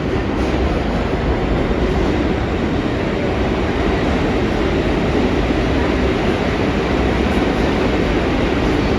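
Bombardier R62A subway train running through an underground station, a loud steady rumble of wheels on rails.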